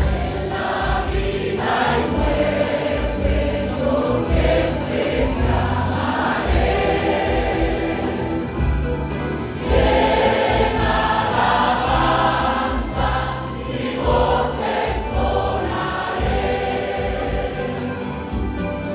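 A church choir singing a Spanish hymn with instrumental accompaniment and a steady bass beat, recorded live.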